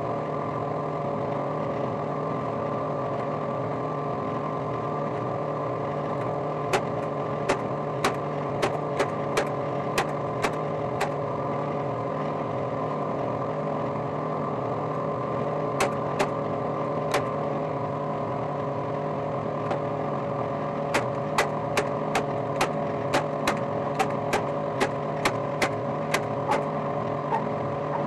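Runs of sharp clicks, about two a second, from a stapler fastening mesh onto a wooden cabinet door. The clicks come in three runs, about 7 to 11 seconds in, around 16 to 17 seconds, and from 21 to 27 seconds, over a steady machine hum.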